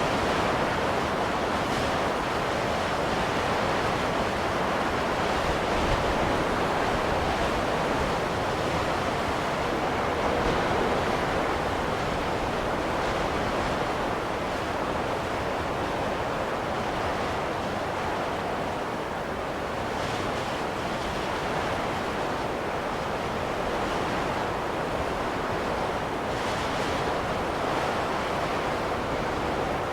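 Steady wind of a snowstorm: a continuous rushing noise that swells and eases slightly.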